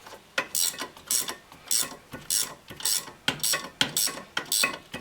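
Ratchet wrench clicking in repeated short bursts, roughly two strokes a second, as it spins out a bolt on the rear brake assembly that has already been broken loose.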